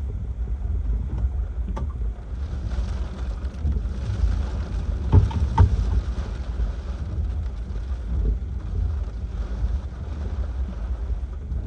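Hurricane-force wind gusting and buffeting the microphone with a heavy, low rumble. A few sharp knocks sound about halfway through.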